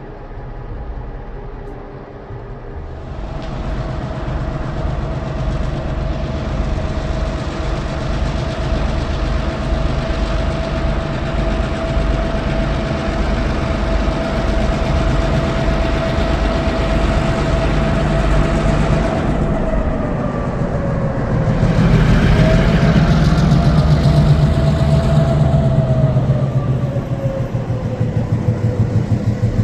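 A diesel switching locomotive moves past with its train of cars, engine running and wheels rolling, growing louder about three seconds in. A steady whine rides over it and slides lower twice, in the last third.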